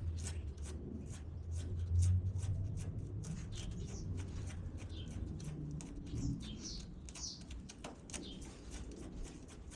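Birds chirping in many quick, short calls over a low steady hum.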